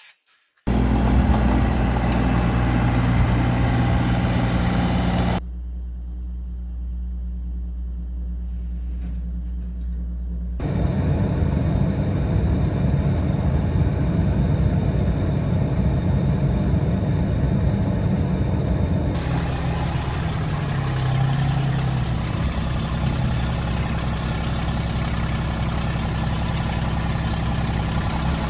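Vehicle engine running steadily with a low, even hum, heard in several back-to-back segments that change abruptly about five, ten and nineteen seconds in.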